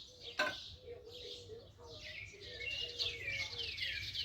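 Small birds chirping and calling over and over, with many quick downward-sliding notes that crowd together in the second half. There is one sharp click about half a second in.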